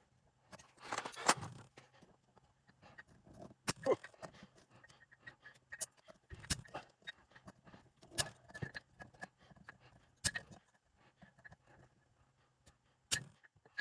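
Scattered sharp clinks and knocks of metal tools and parts being handled as a 231J transfer case is taken apart, with a brief rustling scrape about a second in.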